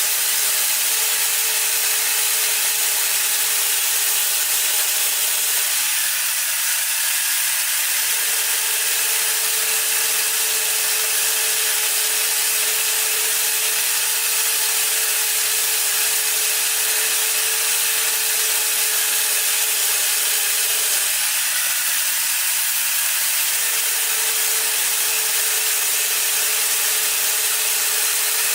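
A power tool working wood, running steadily with a dense hiss and a steady motor whine. The whine drops out twice for about two seconds each time.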